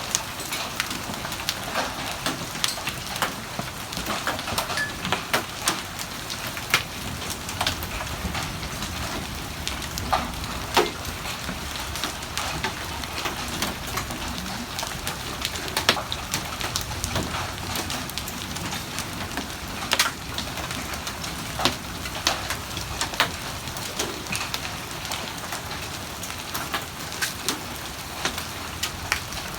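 Hail and heavy rain falling: a steady hiss of rain, broken by frequent, irregular sharp knocks of hailstones striking.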